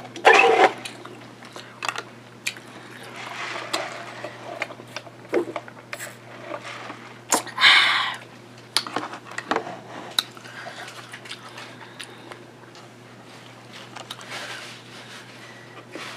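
Close-miked chewing and wet mouth sounds of someone eating a sub sandwich, with scattered small clicks and smacks and one louder noisy burst about eight seconds in.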